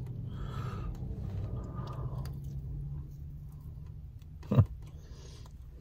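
Quiet chewing of a breaded fried mozzarella stick, over a steady low hum. A short voiced 'mm'-like sound comes about four and a half seconds in.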